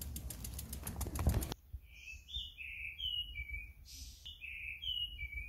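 A bird chirping in two quick runs of short notes. Before it comes about a second and a half of rapid, even ticking over a low rumble, which cuts off abruptly.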